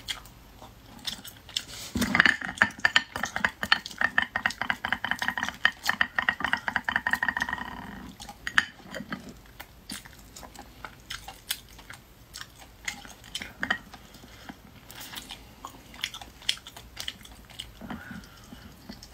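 Close-up chewing and crunching of cooked hermit crab. A dense run of rapid crackling clicks comes from about two to eight seconds in, then sparser clicks and smacks.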